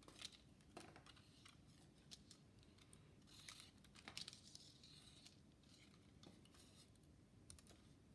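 Faint scattered clicks and short scraping rustles of small objects being handled.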